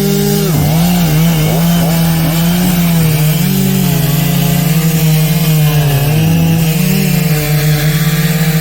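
Chainsaw cutting through the trunk of a fallen tree, its engine running at high speed. The pitch drops sharply as the chain bogs in the wood about half a second in and again a little after six seconds, then recovers.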